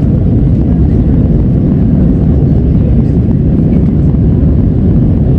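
Airliner jet engines and rushing air, a loud, steady low rumble.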